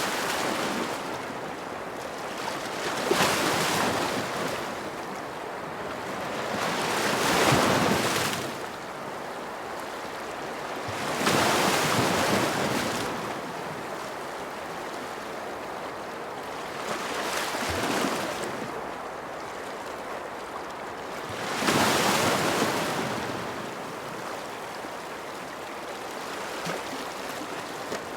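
Ocean waves washing onto a shore: six surges of surf a few seconds apart, each swelling and fading over a steady hiss of water.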